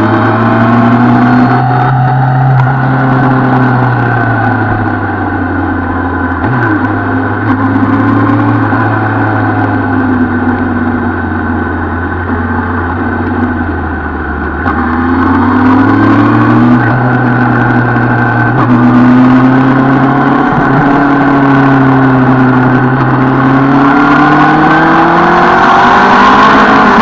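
Suzuki Bandit 650 N's inline-four engine running under way. Its pitch rises and falls repeatedly with throttle and gear changes, dipping low about fourteen seconds in and climbing high near the end.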